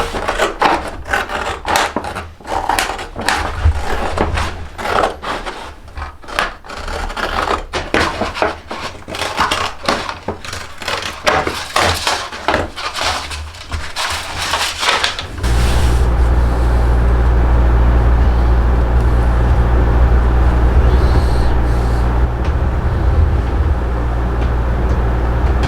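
Repeated, irregular scraping strokes of a hand tool working wood. About 15 seconds in they give way abruptly to a loud, steady low hum.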